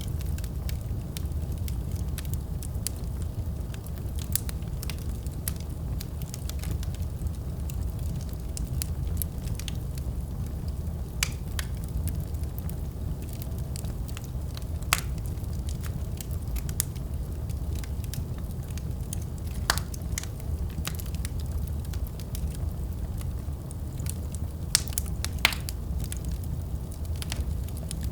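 Wood fire burning in a fireplace: a steady low rush of the flames with scattered sharp crackles and pops, a handful of them louder than the rest.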